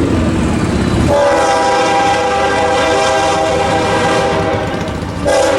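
Locomotive multi-chime air horn sounding: a long blast of several steady notes together starting about a second in, a brief break, then a second blast beginning near the end. A low rumble fills the first second before the horn.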